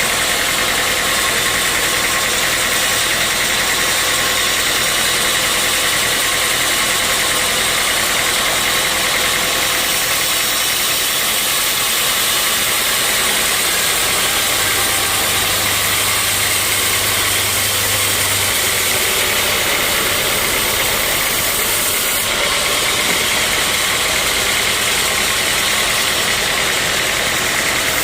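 Sawmill saw and its machinery running steadily: a loud, constant mechanical noise with a high-pitched hiss and a steady whine, no break or change throughout.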